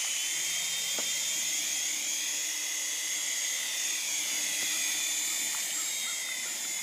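Small infrared toy RC helicopter in flight: its electric rotor motors give a steady high whine whose pitch drifts slowly up and down as the throttle changes.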